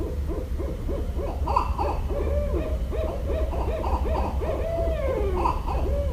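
Barred owl calls: a fast run of short hooting notes, ending in a long note that slides down in pitch, over a steady low rumble.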